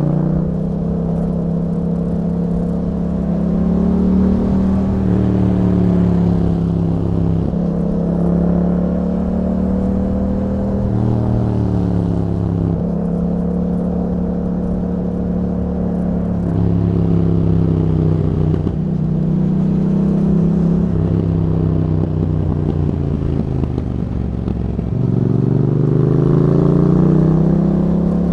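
2021 Yamaha MT-07's 689 cc parallel-twin engine running through an Akrapovic exhaust with a YAHOM dB killer while riding. Its revs rise and fall repeatedly, with abrupt steps in pitch at gear changes, and climb steadily near the end.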